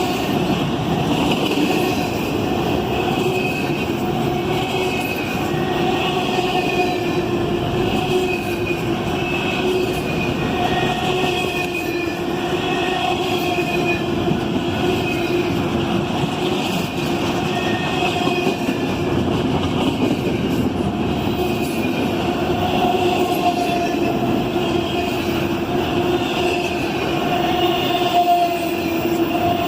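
Norfolk Southern freight train rolling past, a continuous rumble of cars on the rails with steady, wavering high wheel squeal over it.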